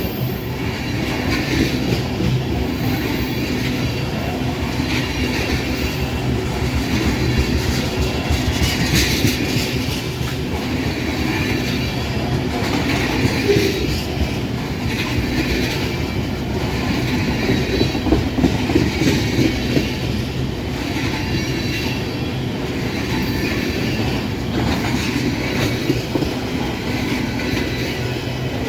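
Loaded ethanol tank cars of a long freight train rolling past close by, a steady rumble with the wheels clattering in a rough repeating rhythm over the rail joints.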